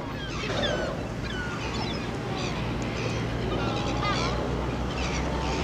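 Birds calling over and over in short, bending chirps and squawks, with a steady low rumble underneath.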